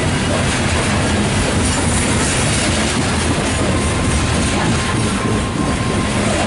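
Loaded coal train's hopper cars rolling past, a steady loud rumble and clatter of wheels on rail. A faint thin wheel squeal comes in about halfway through.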